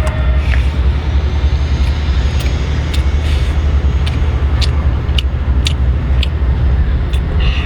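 Wind buffeting the microphone: a loud, steady low rumble, with a few short sharp clicks scattered through it.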